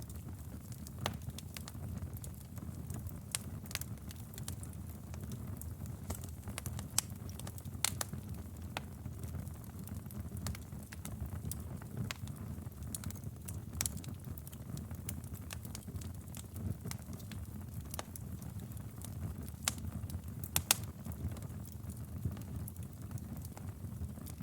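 Wood fire burning in a fireplace: a steady low rumble with irregular sharp crackles and pops, a few louder snaps about eight seconds in and again near the twenty-second mark.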